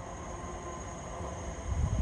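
Low rumble of an electric passenger train approaching along the track, with a faint steady high-pitched whine over it. A louder low rumble swells briefly near the end.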